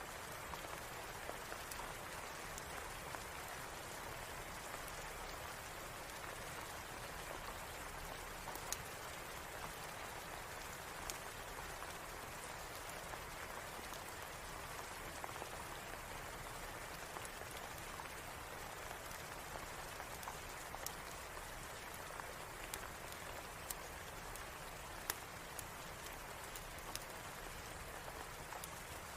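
Steady rain falling, an even hiss with scattered sharp pops throughout.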